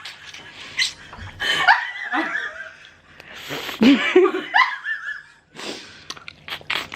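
Several women laughing in short bursts, with a few sharp clicks near the end.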